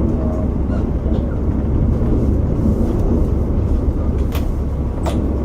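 Running noise inside a KiHa 47 diesel railcar: a steady low rumble from the engine and wheels, with two sharp clicks near the end.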